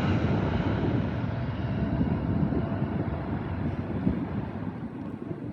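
Distant jet noise of a Boeing 777 airliner fading away as it flies off: a steady low rumble whose hiss dies out first while the whole sound grows gradually quieter.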